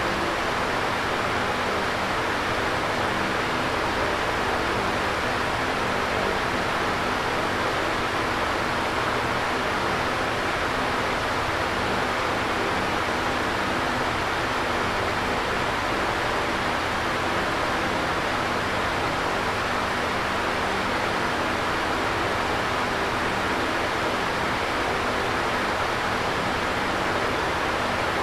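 Electric fan running steadily: an even whooshing rush of air with a faint low hum from the motor.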